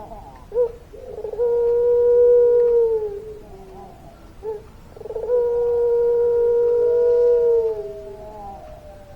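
Puter pelung dove cooing: two long, drawn-out, level coos of about two seconds each that drop in pitch at the end, each coming just after a short coo.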